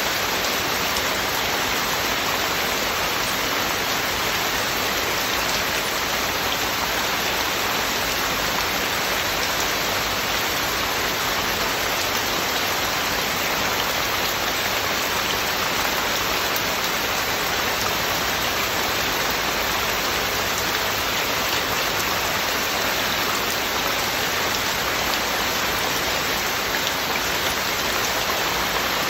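Heavy, steady rain falling, an even hiss with no drops or gusts standing out.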